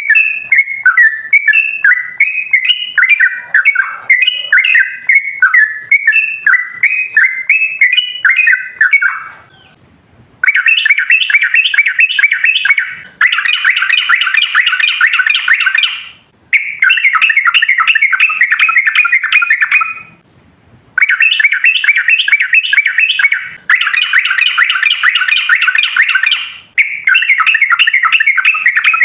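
Yellow-vented bulbul (trucukan) singing: bubbling, chattering phrases at first, then after a short pause about ten seconds in, long unbroken runs of very rapid notes, the long rapid-fire 'ropel' song, broken by a few brief gaps.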